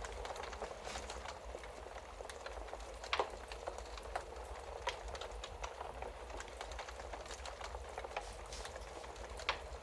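Wood fire crackling in a fireplace: a steady hiss of burning with many small, irregular pops, the loudest about three seconds in and again near the end, over a low steady rumble.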